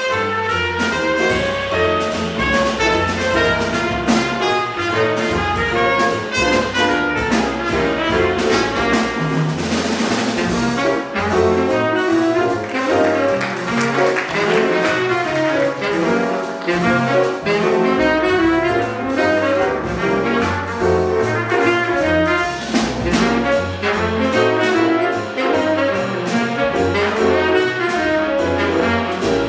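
Acoustic jazz quintet playing a fast bebop-style tune: trumpet and tenor saxophone over piano, double bass and drums with busy cymbal work.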